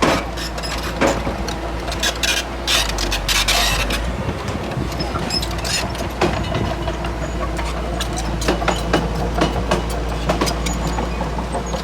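Komatsu D31P bulldozer working: a steady diesel engine rumble under many irregular metallic clanks and knocks from its steel tracks and blade.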